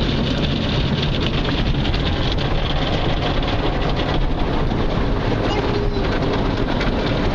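Rotating brushes of a Ryko conveyor car wash scrubbing against the car, with water spray, heard from inside the cabin as a steady, super loud rush and slapping.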